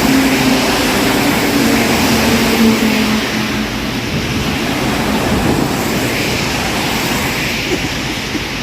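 Heavy rain and highway traffic: a passing vehicle's engine drone drops in pitch and fades over the first three seconds, over a steady hiss of rain and tyres on the wet road.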